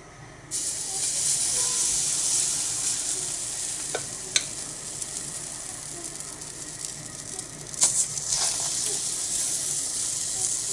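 Okonomiyaki batter sizzling on a thick iron griddle over a wood fire. The sizzle starts suddenly about half a second in as the batter hits the hot plate, then slowly eases off, with a few sharp clicks.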